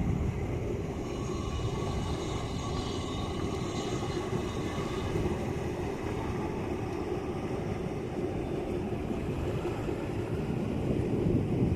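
Steady low rumble of sea surf and wind on the microphone, with a faint high tone in the first few seconds.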